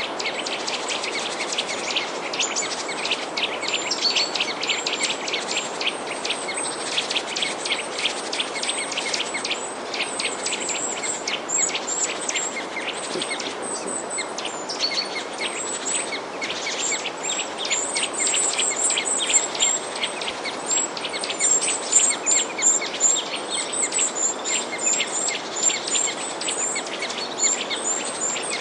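Many small birds chirping busily: a dense stream of short, high chirps in quick succession over a steady hiss.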